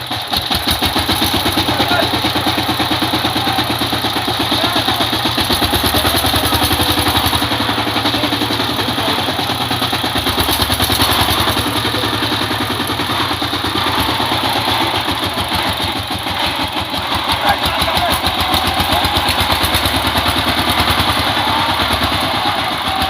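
Power tiller engine running at a steady, even beat.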